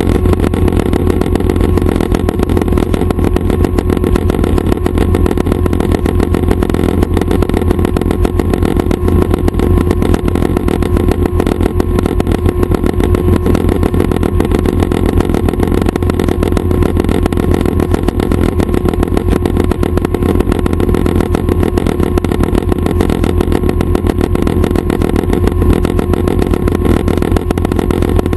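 Schweizer 269 light training helicopter running steadily, its piston engine and rotors making a loud, continuous drone with a deep throb and a steady mid-pitched hum.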